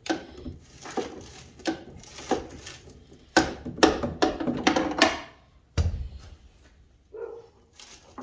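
Tools knocking and clanking on a truck cab's metal during teardown work: a run of sharp knocks, close together in the middle, with a heavier thump about six seconds in.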